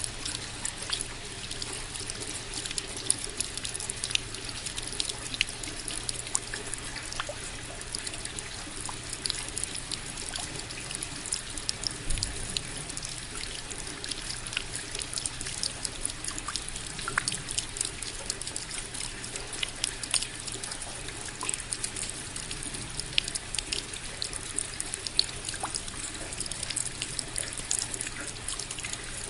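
Steady rain with dense, irregular drips and patters of drops landing close by, over a constant hiss.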